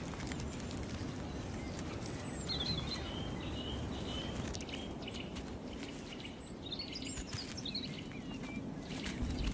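Short, high chirping bird calls in two groups, about two and a half seconds in and again around seven seconds in, over a steady low background noise with scattered light clicks.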